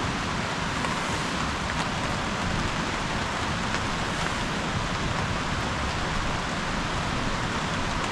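Steady light rain falling: a constant hiss with scattered faint drop ticks.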